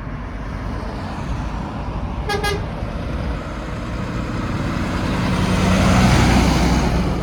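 Scania truck pulling away: one short toot of its horn about two seconds in, then its diesel engine running louder as it draws past, loudest near the end and easing off.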